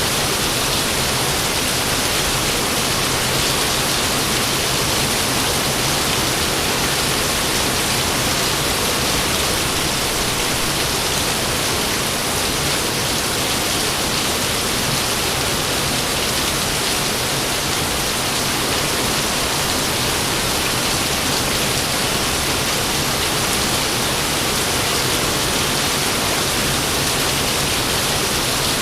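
Steady heavy rain falling, an even hiss with no thunder claps or breaks.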